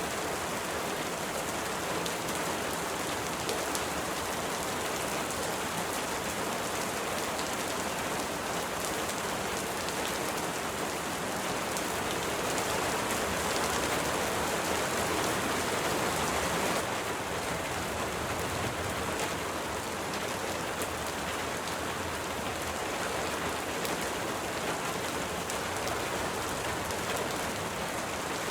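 Steady rain falling. It grows a little heavier about halfway through, then eases back suddenly.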